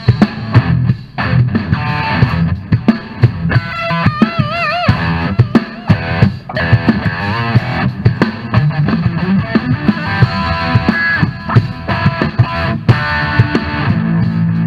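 Hard rock instrumental: an electric guitar solo over a drum kit, with fast runs of notes and wide vibrato on held, bent notes about four seconds in.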